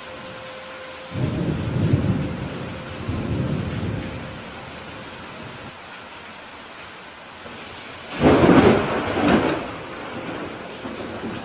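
Steady rain with thunder: a low rumble of thunder starts about a second in and lasts a few seconds, then a louder, sharper thunderclap comes about eight seconds in and fades within two seconds.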